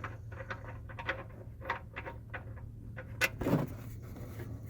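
A run of light, irregular clicks and knocks of metal tools being handled, with one sharper knock about three seconds in, over a steady low hum.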